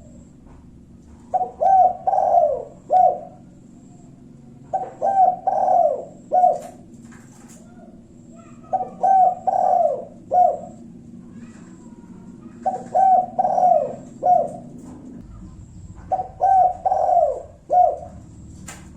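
Spotted dove (tekukur) cooing in the one-'kuk' call type used as a lure to rile rival doves into answering. It gives five phrases about four seconds apart, each a quick run of three or four coos ending in a short separate note. A steady low hum sits underneath.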